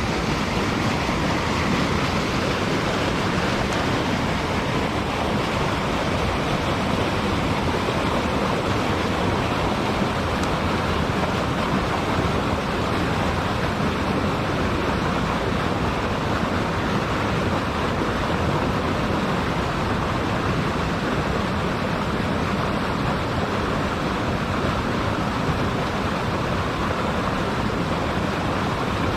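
Mountain stream water rushing steadily, an unbroken hiss of flowing water.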